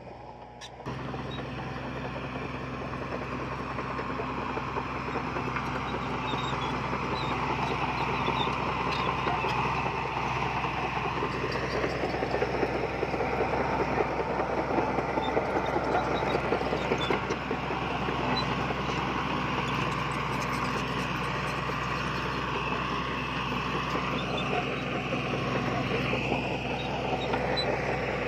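Diesel engine of heavy earthmoving machinery running steadily under work, stepping up in level about a second in.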